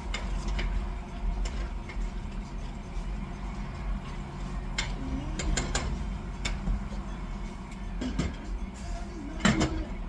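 A cooking utensil knocking and clinking against cookware in short, scattered strikes, loudest near the end, over a steady low hum.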